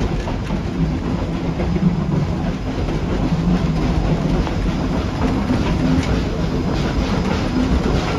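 Tweetsie Railroad narrow-gauge train rolling along the track, heard from inside a passenger car: a steady rumble of wheels on rails with faint clicks.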